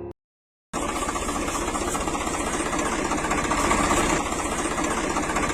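An engine or small motor running steadily with a fast, even chugging pulse, starting abruptly about half a second in after a brief silence.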